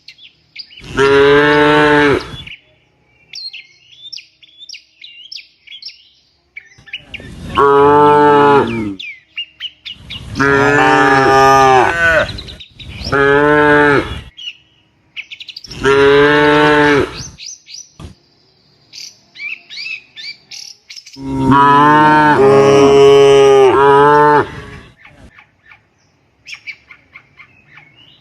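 Cattle mooing: about six long, loud moos in a row, the last the longest, with birds chirping in the gaps between them.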